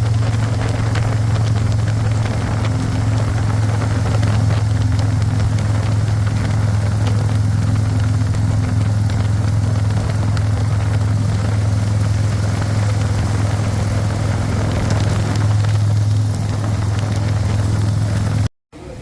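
A steady, loud, low engine hum that does not change in pitch, cut off suddenly near the end.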